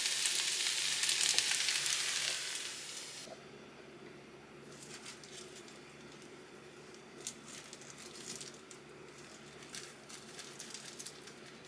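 Food sizzling as it fries in a pan, a loud steady hiss that cuts off suddenly about three seconds in. After that come only faint scattered clicks and taps.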